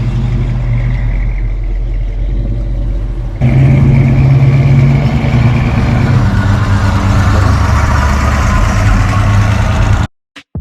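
A car engine running, loud and steady with a low hum. It gets louder about a third of the way in, then cuts off suddenly near the end.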